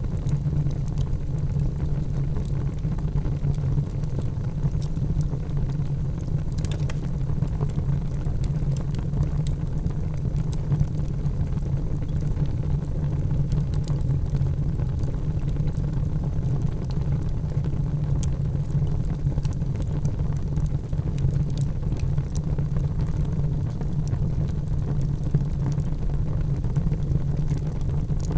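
Wood fire in a fireplace crackling, with scattered small pops and snaps over a steady low rumble.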